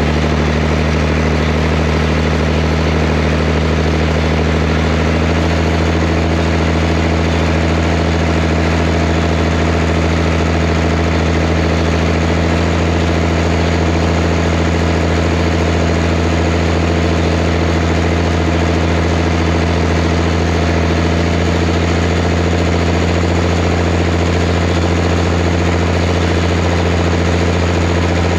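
Zetor Crystal 16145 tractor's diesel engine running at a steady, unchanging speed, a constant low hum.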